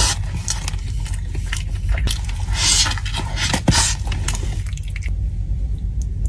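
Close-miked mukbang eating sounds: wet chewing and biting with squishy, smacking noises, and a louder hissy burst about two and a half seconds in.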